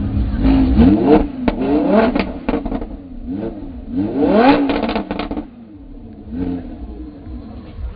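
Sports car engine revved in a series of short blips from idle, each rising and falling in pitch, with crackles and pops as the revs fall. The two strongest revs come about a second in and about four seconds in, before it drops back to idle.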